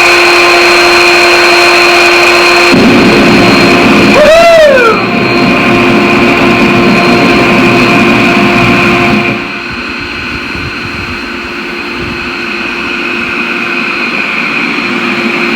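Forge just fired up and running: a loud, steady drone with a constant hum. About three seconds in a lower rushing noise joins it, there is a brief rising-then-falling whistle a little later, and the sound drops in level about nine seconds in.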